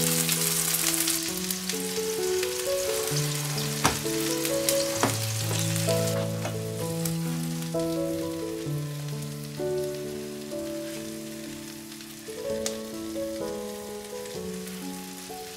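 Breaded cutlets sizzling in hot oil in a frying pan, with a couple of sharp knocks of a silicone spatula against the pan; the sizzling grows fainter about halfway through. A gentle melody plays underneath.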